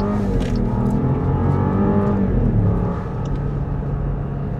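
Jeep Grand Cherokee's 2.0-litre turbocharged Hurricane inline-four under full throttle, heard from inside the cabin. The engine pulls up in pitch for about two seconds after its turbo lag, then drops and settles lower, and quieter, about three seconds in.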